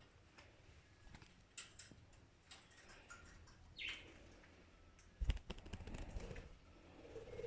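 Baby budgie giving one short falling chirp about four seconds in, followed a second later by a quick run of soft flutters and taps as she flaps her wings, with small clicks scattered throughout.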